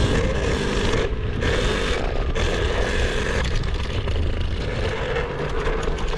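KTM electric kids' dirt bike running, its electric motor giving a steady whine as the rear tyre spins through sticky mud.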